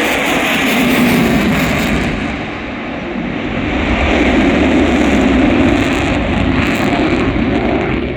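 Airplane engine noise, loud and steady, easing off a little about two and a half seconds in and then building up again.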